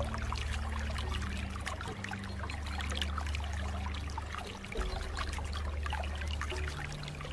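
Water trickling and babbling in a continuous stream of small splashes, over low held notes of a soft music pad that change pitch every second or two.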